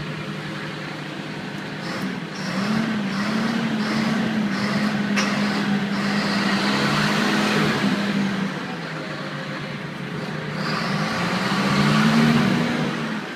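The 2012 John Deere 6430 tractor's diesel engine running on a cold start, heard from inside the cab. Its note swells and wavers about 2 s in and rises again near the end.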